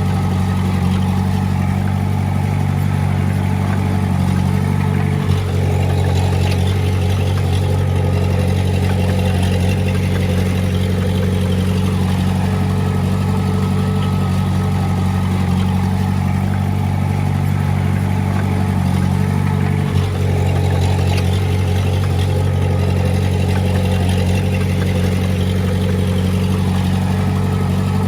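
Diesel engine of heavy earthmoving equipment running steadily, with a brief knock about five seconds in and another about twenty seconds in.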